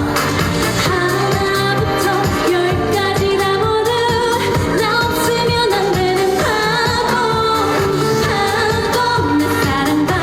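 Female trot singer singing live over backing music with a steady beat.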